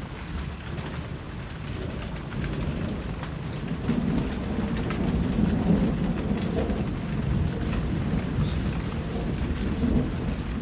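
Steady rain falling, with fine drop ticks. A long, low roll of thunder builds about four seconds in and rumbles on until near the end.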